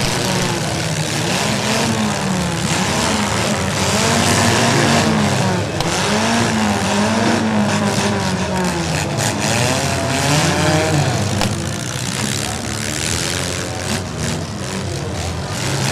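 Several demolition derby cars' engines revving up and down over one another, each pitch rising and falling in turn, with a couple of sharp knocks from impacts partway through.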